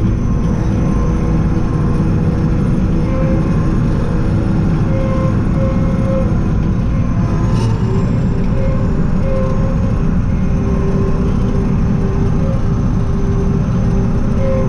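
Kirovets K-700A tractor's diesel engine running steadily and loud, with faint whining tones that come and go above it.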